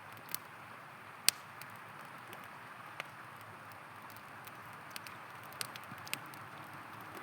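Wood campfire crackling with scattered sharp pops, the loudest about a second in, over the steady rush of a river.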